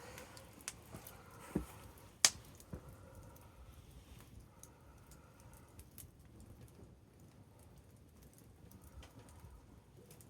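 Wood campfire crackling, with scattered irregular pops and one sharp, loud pop about two seconds in.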